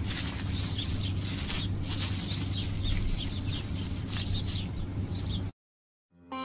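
Small birds chirping over and over, short high downward chirps over a steady low background hum. The sound cuts off abruptly about five and a half seconds in, and plucked sitar music starts just before the end.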